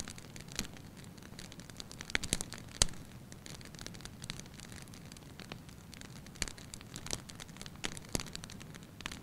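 Wood fire burning in a fireplace: a low steady hiss of flame with irregular sharp crackles and pops, the loudest a little after two seconds and just before three seconds in.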